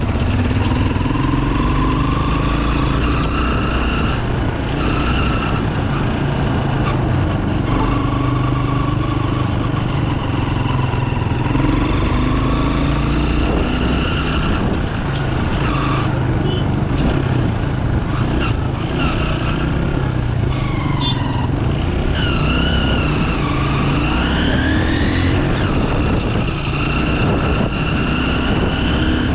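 Pulsar 200 motorcycle's single-cylinder engine running under way, its pitch rising and falling as the throttle and speed change.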